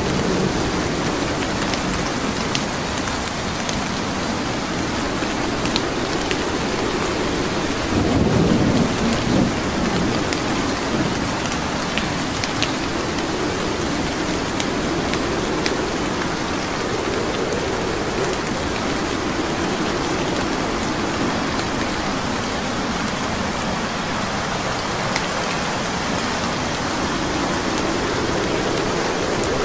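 Steady rain with low rolling rumbles of thunder, loudest about eight seconds in, and a few sharp crackles and pops of wood logs burning in a fireplace.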